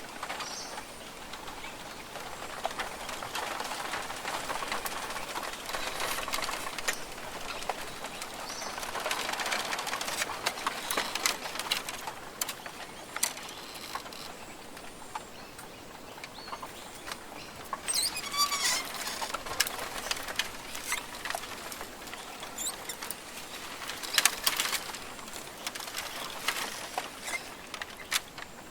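Rainforest ambience: birds calling over a steady rushing hiss, with many scattered sharp clicks and rustles. The calls are strongest in a cluster a little past the middle and again near the end.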